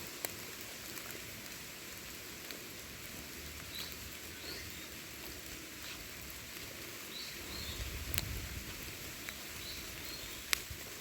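Light rain pattering and dripping in a forest, with scattered sharper drops and a few faint high bird chirps.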